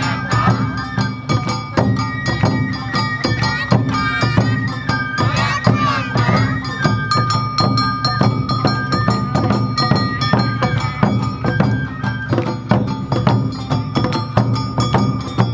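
Live Awa Odori festival music: a held bamboo-flute melody over a brisk, steady beat of drums and clanging percussion.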